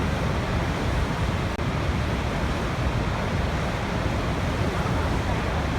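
Waterfall rushing: a steady, even wash of falling water with no breaks, heaviest in the low range.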